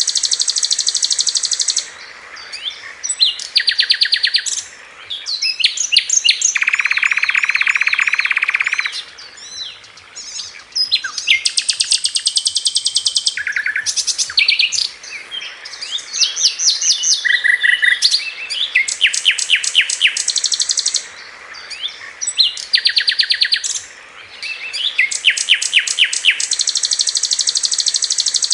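Sikatan londo flycatcher singing loud, high-pitched phrases of rapid-fire repeated notes and fast trills, each a few seconds long, with brief pauses between them: the sharp 'tembakan' bursts of its song.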